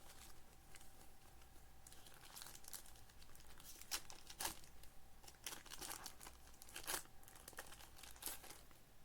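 Foil trading-card pack wrappers and cards being handled: irregular crinkling and rustling, with sharper crackles about four, four and a half, six and seven seconds in.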